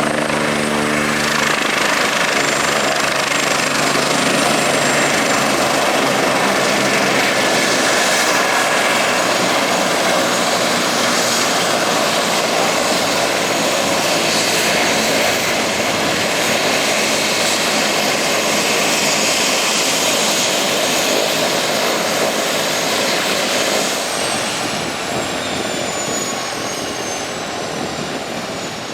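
Eurocopter EC145's twin turbine engines and rotor running loud and steady around its landing, with a thin high turbine whine over the noise. Near the end the whine falls in pitch and the sound gets quieter.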